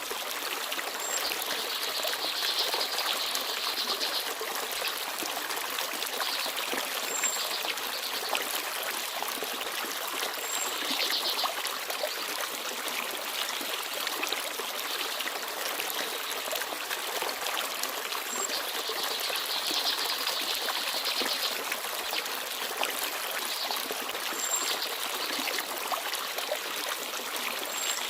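A small forest stream babbling and trickling steadily over stones. Brief high chirps of small birds come every few seconds over the water.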